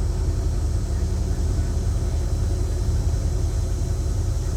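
Mercedes-AMG engine idling steadily about a minute after a cold start, having sat for roughly two weeks. The sound is low and even, with no change in speed.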